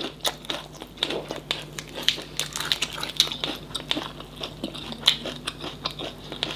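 A person chewing a mouthful of a lettuce and herb wrap filled with tiny tôm nhủi shrimp, with many sharp, irregular crunches.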